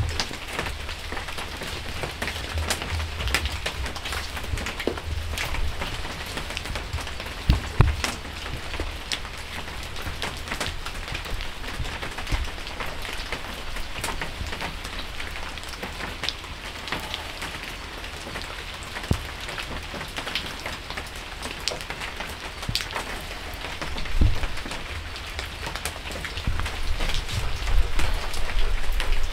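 Steady rain, many small drops pattering on a surface, with a low rumble underneath and a couple of louder dull knocks.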